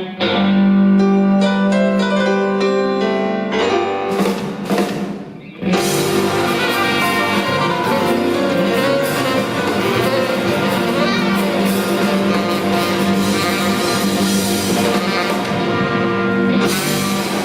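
Live blues-rock band playing: electric guitar, drums and cymbals, with long held chords, drum hits and a cymbal crash near the end, typical of a drawn-out song ending.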